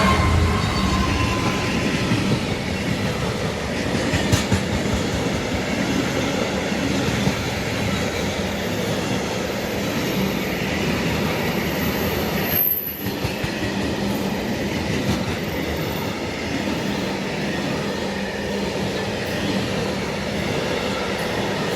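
A freight train behind a Class 66 diesel rolling steadily past, its wagons' wheels clattering and rumbling on the rails, with a brief drop in the sound about 13 seconds in.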